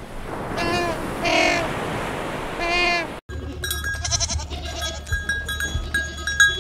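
Three loud, drawn-out bleats from livestock such as goats or sheep, about a second apart. After a sudden cut, quieter short clucking and peeping calls of chickens over a steady low hum.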